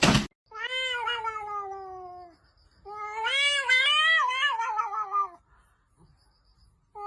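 A cat yowling in long drawn-out meows: one that slides down in pitch, then a longer one that wavers up and down, with a third starting near the end. A short noisy burst sounds right at the start.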